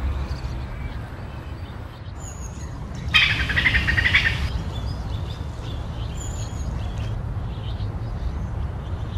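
Birdsong over a steady low rumble: a few short high chirps, and about three seconds in, a loud rapid trill from a songbird lasting over a second.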